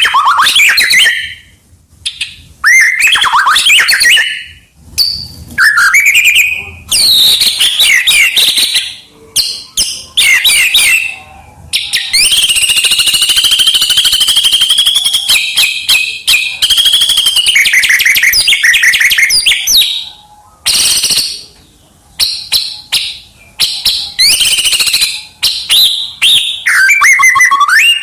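White-rumped shama singing a loud, varied song of whistled and gliding phrases, packed with mimicked calls of other birds. The phrases come with short pauses between them, and about halfway through one rapid, unbroken run of notes lasts about eight seconds.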